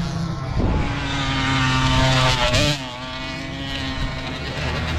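Youth dirt bike engines revving hard, the pitch climbing for about two and a half seconds, then falling away with a drop in loudness, then running on steadily.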